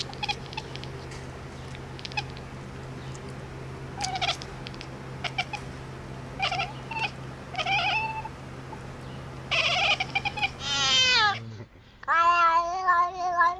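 Cat meowing: a string of short meows, a falling cry, then a longer wavering meow near the end, over a steady low hum that stops shortly before the last call.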